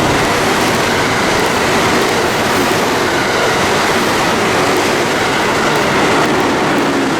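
Train running through the station at speed: a loud, steady rush of wheels on rails.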